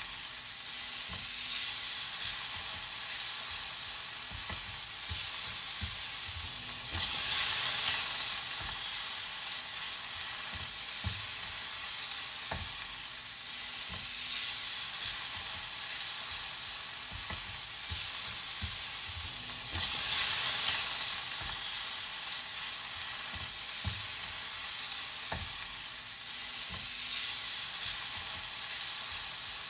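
Steady sizzling of food frying in hot oil in a pan, a dense hiss that swells louder twice, about a quarter and two-thirds of the way through.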